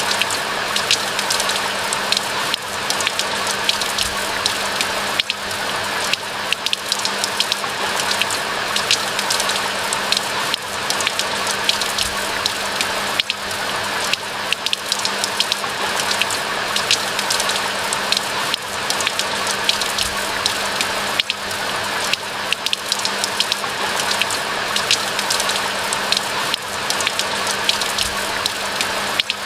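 Steady rain falling, with many individual drops ticking sharply through an even hiss. A faint steady low hum runs underneath.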